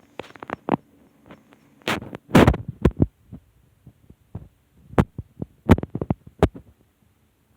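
Footsteps of a person walking on the ground: a series of uneven thumps that settle into an even walking pace near the end.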